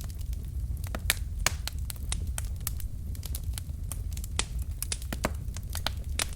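Wood fire in a fireplace crackling: irregular sharp pops and snaps from the burning logs over a steady low rumble of flame.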